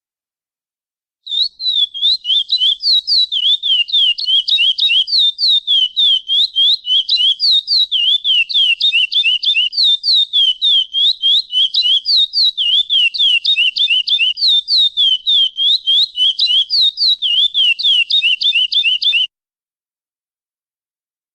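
Curió (chestnut-bellied seed finch) giving a long, rapid series of repeated down-slurred whistled notes, about four or five a second, starting about a second in and stopping abruptly a couple of seconds before the end.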